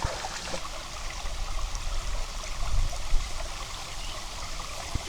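Steady rushing of flowing stream water, with some low rumbling near the middle.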